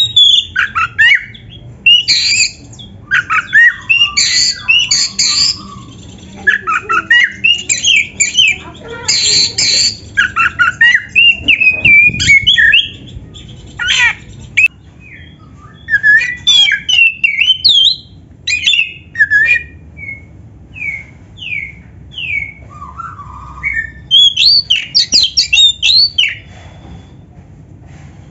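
Oriental magpie-robin (kacer) in full song: rapid bursts of varied whistles mixed with harsh, scratchy chattering notes. Midway the song thins to a run of single whistled notes, then breaks into another dense burst before stopping just before the end.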